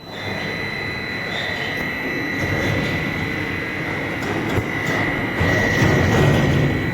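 1500-type dual-shaft industrial shredder tearing through washing machines: a dense grinding, crunching noise with a constant high whine and scattered sharp cracks. It grows louder about five seconds in.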